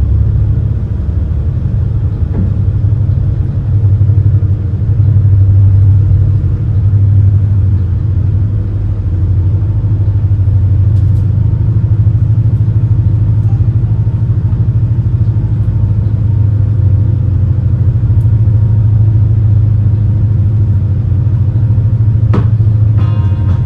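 Steady low drone of the Super Jet Miyajima high-speed passenger boat's engines, heard on board while under way. Near the end there is a sharp click, then a few steady tones begin.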